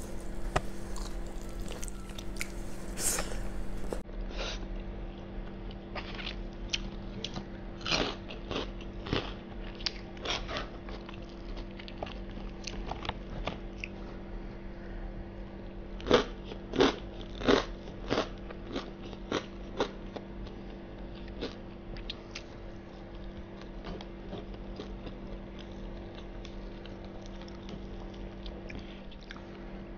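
Close-miked chewing and wet mouth clicks of a person eating a mouthful of rice and fried chicken, with three loud smacks in quick succession about sixteen seconds in.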